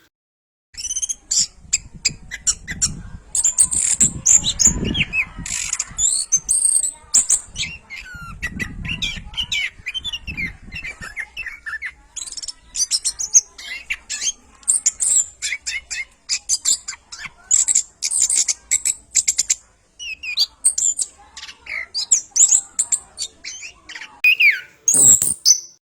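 Orange-headed thrush singing vigorously: a fast, varied run of high whistles, chirps and trills in short phrases with brief pauses.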